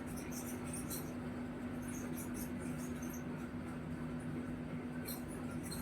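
Low, steady electrical hum of the recording's background, with scattered faint high-pitched ticks and crackles.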